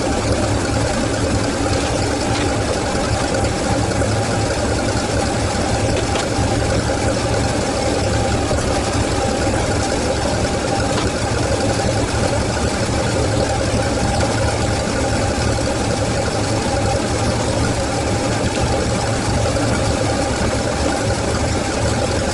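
Freshly rebuilt Toyota 4A-GE twin-cam four-cylinder on carburetors, idling steadily.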